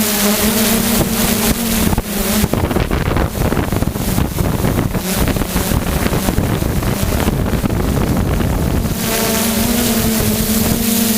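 Drone's propellers whining at a steady pitch, drowned out from about two seconds in by several seconds of loud wind buffeting the microphone, then heard again near the end.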